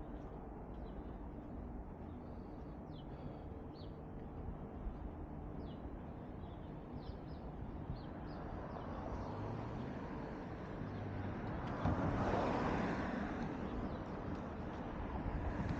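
Street traffic rumbling steadily, with a vehicle passing close by about twelve seconds in, and faint bird chirps in the first half.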